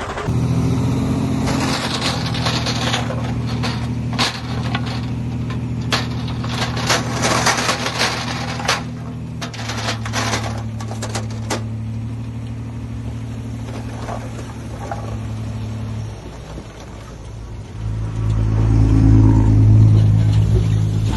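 Heavy diesel engine of earthmoving machinery running steadily, with a run of sharp clanks and rattles over the first half. The engine drops away briefly near the end, then comes back louder.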